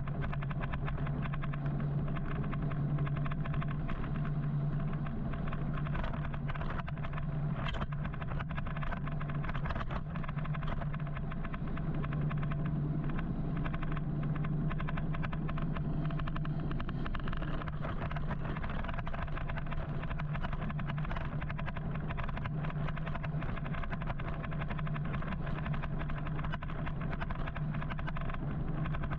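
Steady road and traffic noise heard from a moving electric motorcycle, with wind crackling on the microphone and a constant low hum.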